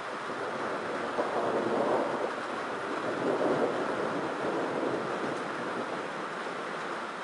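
Rolling thunder: a noisy rumble that swells about a second in, peaks twice, and slowly dies away.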